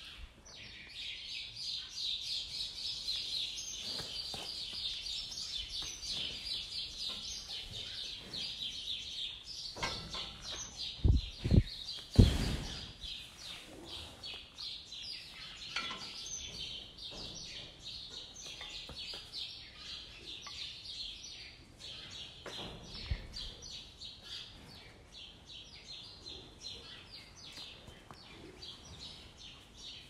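Dense, continuous chirping and twittering of many small birds, high-pitched and unbroken. Near the middle come two or three loud, low thumps.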